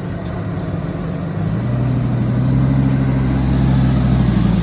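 A car engine running, its low note growing louder and steadier from about a second and a half in.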